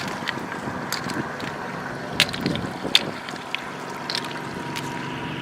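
Floodwater running and sloshing, with a few sharp clicks, two of them about two and three seconds in.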